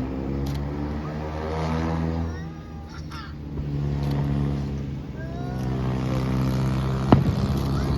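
Fireworks display: one sharp firework bang about seven seconds in, with a few short rising whistles earlier, over a steady low droning hum.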